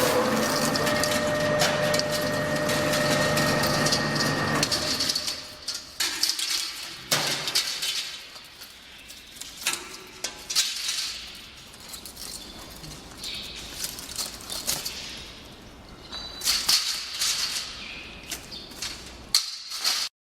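Electric radiator stripping machine running with a steady hum and held tones. It stops about five seconds in, and after that only irregular clicks and metallic rattles are heard.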